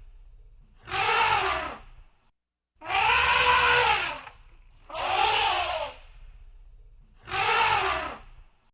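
Elephant trumpeting, four loud calls about two seconds apart, each rising then falling in pitch with a harsh, brassy edge.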